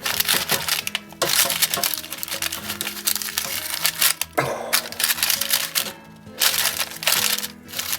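Crisp crackling and scraping of breaded chicken drumsticks being turned over in an air fryer basket, in two long stretches, over background music.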